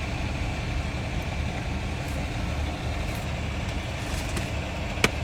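Heavy vehicle engine idling with a steady low rumble, and a single sharp clack about five seconds in.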